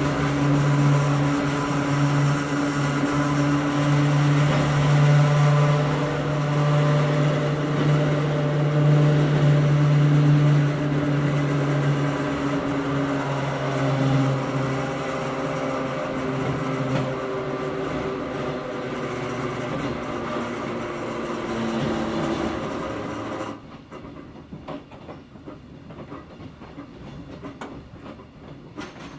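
Running sound inside a Hakone Tozan Railway Moha 1 electric railcar with nose-suspended traction motors: a loud steady low hum from the drive, with rail and wheel noise, fades over the first half. About 23 seconds in the noise drops off suddenly, leaving quieter scattered clicks and knocks.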